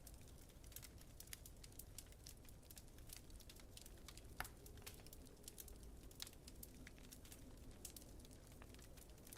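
Wood fire crackling softly: a steady stream of small irregular pops, with a sharper snap about four and a half seconds in, over a faint low rumble.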